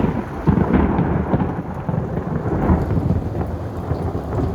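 Loud, low rolling thunder with rapid crackles in the rumble, over steady heavy rain.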